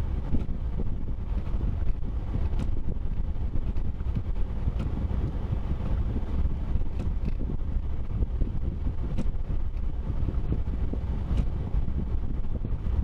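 Steady low rumble of a vehicle on the move, with faint ticks about every two seconds.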